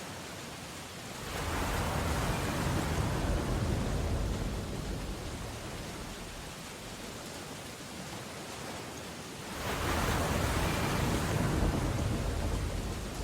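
Steady rain on window glass, with two heavy ocean waves surging and breaking outside, one about a second in and another near the end, each swelling up and fading over a few seconds.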